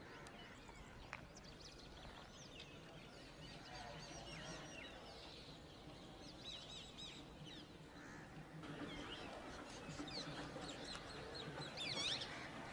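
Several birds chirping and calling, many short high calls overlapping, busier and a little louder near the end.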